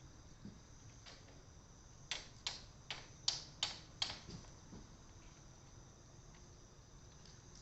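Cedar wood crackling in a bonfire: a quick run of about six sharp pops a couple of seconds in, then only a few faint ticks.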